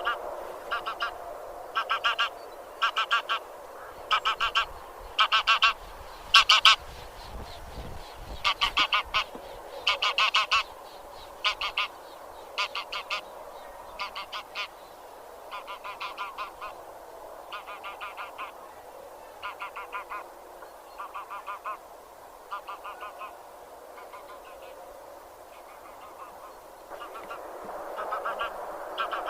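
Geese (genus Anser) honking: repeated calls about one to two a second, loudest in the first half and fainter after the middle, over a steady softer babble of other calls that swells again near the end.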